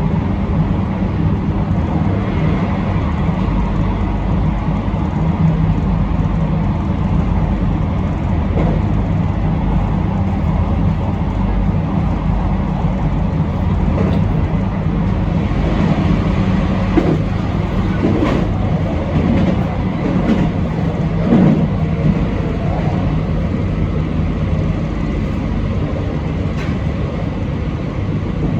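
Train running along the line, heard from the front of the passenger car: a steady rumble of wheels on rail, with a few short knocks about two-thirds of the way through.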